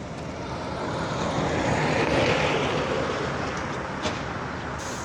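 Heavy truck engine running hard under load, its noise building to a peak about two seconds in and then easing a little.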